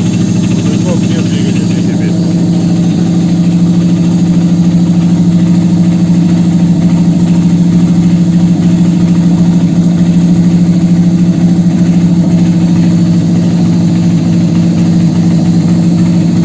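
Toyota 1ZZ-FE 1.8-litre inline-four engine running steadily on a test stand, with no revving; it gets a little louder after about three seconds.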